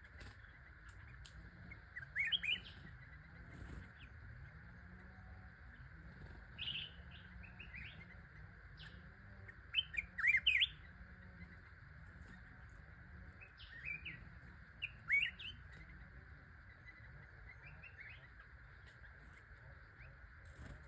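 A songbird, the 'charcoal-headed bird' of the title, calling in short, quick, upward-sweeping chirps. The chirps come in small groups every few seconds and are loudest about ten seconds in. A steady background hiss runs underneath.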